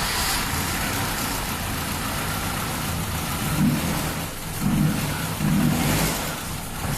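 Freshly rebuilt Volvo B234F 2.3-litre 16-valve four-cylinder engine running on its first start, blipped up three times near the middle and toward the end.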